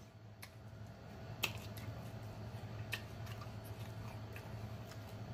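Close-miked mouth sounds of eating tacos: quiet chewing broken by scattered sharp, wet clicks and smacks of lips and tongue.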